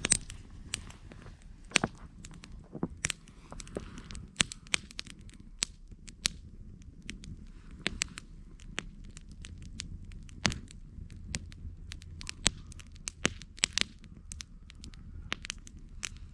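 Wood campfire burning, crackling with irregular sharp pops, a few of them loud, over a low steady rush.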